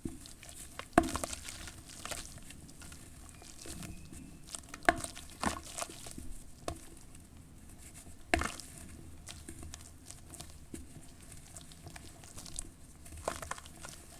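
Lumps of charcoal ash being crumbled in water: a handful of sharp crunches with soft crackling and pattering between them.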